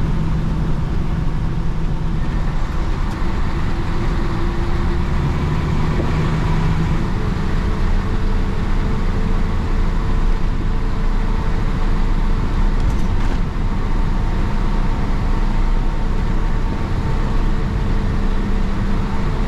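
1966 Isuzu BXD30 bonnet bus's DA640 inline-six diesel engine running under way, heard from inside the bus. Its note rises for a couple of seconds and then drops about seven seconds in, then stays steady.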